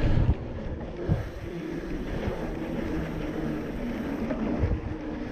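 Mountain bike being pedalled along a dirt trail: wind buffeting the microphone over a steady rumble of tyres and drivetrain, with a couple of low thumps from the bike going over bumps.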